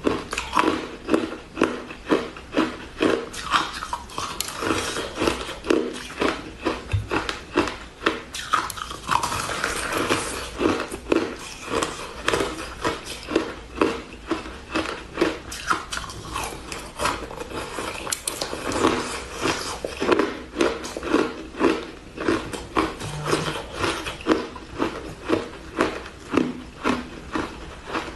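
Close-miked chewing and crunching of purple-flavoured shaved ice, a steady run of sharp crunches about two a second.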